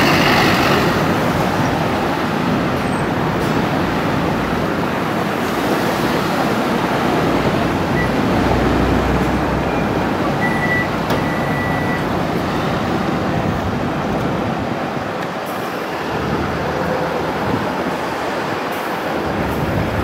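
JR West 103-series electric train pulling out of the station, a steady running rumble mixed with city road traffic.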